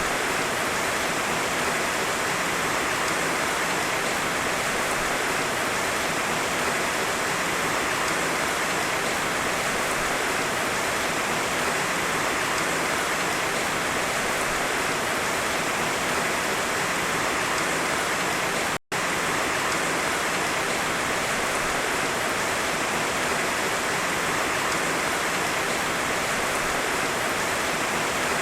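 Heavy rain falling steadily, an even hiss with no thunder. The sound cuts out for an instant about two-thirds of the way through.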